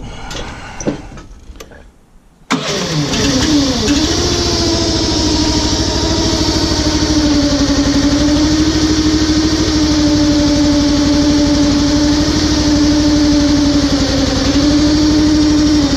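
Struck Magnatrac RS1000 compact track loader's engine starting about two and a half seconds in, after a few brief clinks, then dropping from a high rev and settling to steady running.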